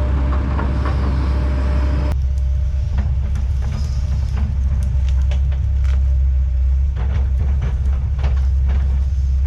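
Heavy diesel land-clearing machinery running with a deep, steady drone, with scattered sharp cracks and snaps of wood and debris. About two seconds in, the higher hiss drops away abruptly while the low drone carries on.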